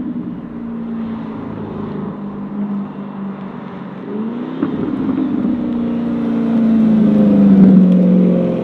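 C8 Corvette's mid-engine V8 running through an AWE Track cat-back exhaust, an essentially straight-piped loud exhaust note. About four seconds in the pitch jumps up; the note then slowly falls in pitch while growing louder, loudest near the end.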